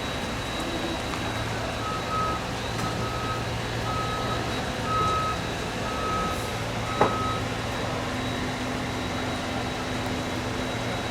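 A truck's reversing alarm beeping six times, about once a second, over a truck engine running steadily. There is a single sharp knock near the last beep.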